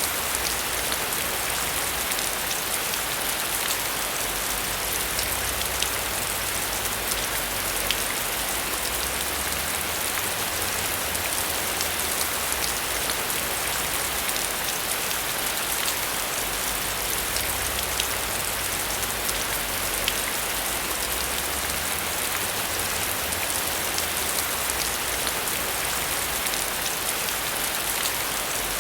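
Heavy, steady rain: a dense hiss of downpour with many individual drops ticking sharply on a hard surface.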